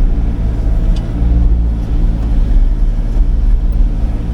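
Sany 35 mini excavator's diesel engine running steadily under load, a loud, even low drone.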